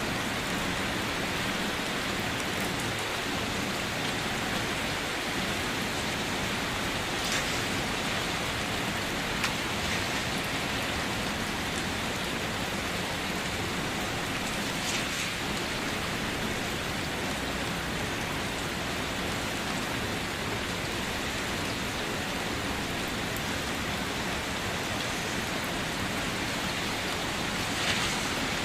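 Steady rain falling, an even hiss, with a few louder drops or splashes standing out now and then.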